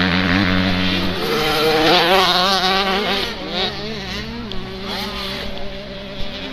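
Several motocross bike engines revving, their pitch rising and falling and overlapping, with a steady low engine hum that drops away about a second in.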